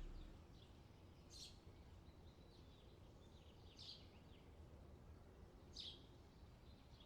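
Near silence, with a few faint, brief bird chirps: one about a second in, one near the middle and one near the end.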